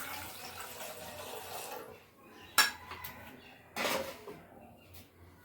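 Metal kitchen utensils and pots being handled: a spell of rattling noise, one sharp knock about two and a half seconds in, then a brief clatter near four seconds.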